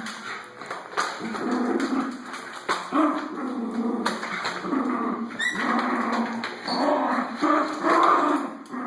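Schnauzer making dog vocal sounds in uneven bursts while playing with a vacuum cleaner, with a short rising whine about five and a half seconds in.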